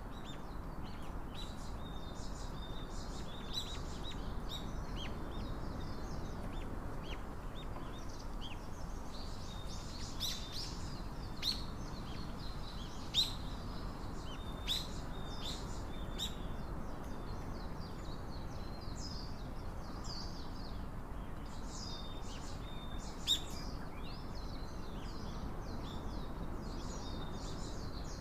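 Small birds chirping and calling in a busy, continuous patter of short high chirps, a few of them louder and closer, over a steady low background hiss.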